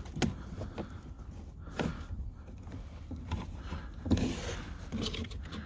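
Clips on a Mercedes Sprinter's mirror mounting being forced out by hand: a few scattered clicks and knocks over a low steady hum.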